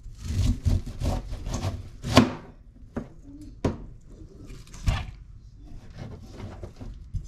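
Kitchen knife chopping vegetables on a cutting board: a run of quick strokes over the first two seconds, the loudest about two seconds in, then a few single knocks spaced out.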